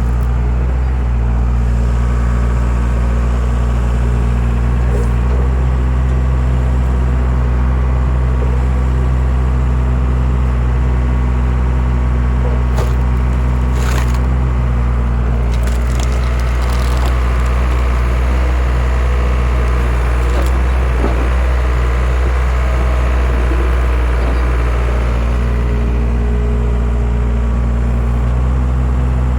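Skid steer engine running steadily while a skid-steer-mounted wood splitter works, with several sharp cracks of wood splitting about halfway through. The engine's note shifts for several seconds as the splitter works.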